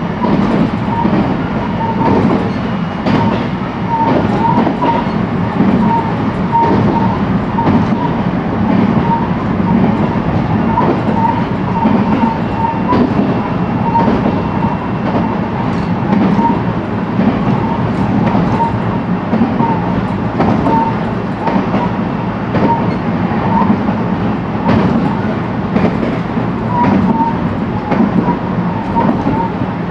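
JR West 223 series electric train running steadily at speed, heard from inside the car: a continuous rumble of wheels on rail with short clicks as the wheels pass rail joints.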